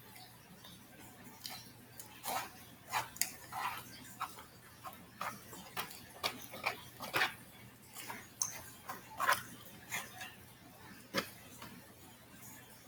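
Close-up eating sounds: wet chewing and lip smacks, coming as irregular short clicks.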